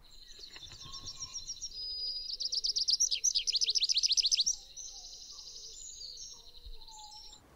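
Birdsong from several birds, with high chirps and warbles. In the middle comes the loudest part, a fast run of repeated notes that each sweep downward, about six a second.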